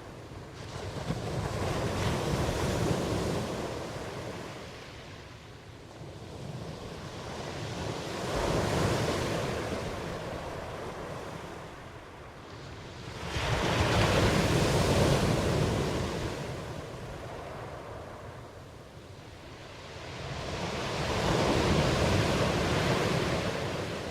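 Ocean waves breaking in slow swells, four surges that each build and fade away; the third comes in suddenly about halfway through and is the loudest.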